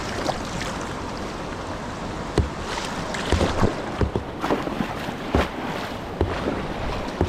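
Kayak on a whitewater river: steady rush of moving water, broken by irregular sharp splashes and knocks.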